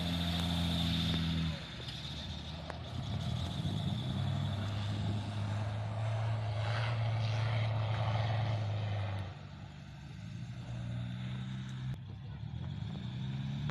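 A vehicle engine running with a steady low note that changes pitch a few times, dropping about a second and a half in and again near the ten-second mark.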